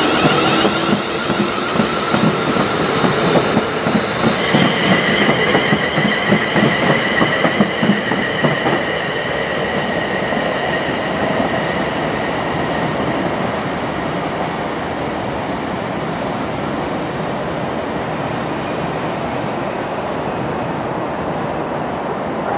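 London Northwestern Railway Class 350 Desiro electric multiple unit running along the track: a fast rhythmic clatter of wheels over rail joints with a high-pitched whine above it for the first eight or nine seconds, then an even, steady rumble as it draws away.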